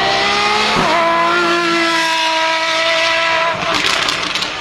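Apollo Intensa Emozione's naturally aspirated V12 at high revs under hard acceleration. The pitch climbs, breaks briefly for an upshift about a second in, then holds nearly steady. A burst of sharp crackles follows near the end as the car passes.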